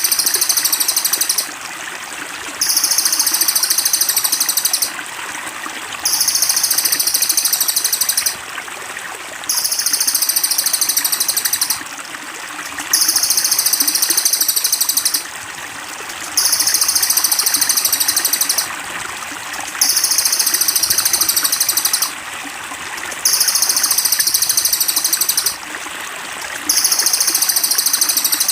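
A looped songbird-training (masteran) recording: a high, rapidly pulsing trill in identical phrases of about two seconds, repeating every three to four seconds over steadily trickling water.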